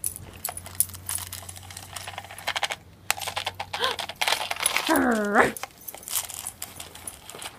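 Footsteps crunching through fresh snow, a dense, irregular scatter of small crackles and clicks. About five seconds in comes one short cry that dips and then rises sharply in pitch.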